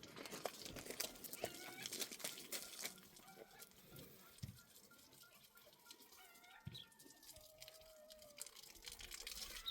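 Faint, short chirping calls of birds scattered throughout, with a run of small clicks and taps in the first three seconds.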